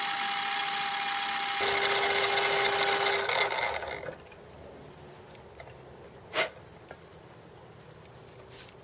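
Metal lathe running steadily with a whine during a boring pass, then switched off about three seconds in and spinning down within a second. One sharp knock follows a couple of seconds later.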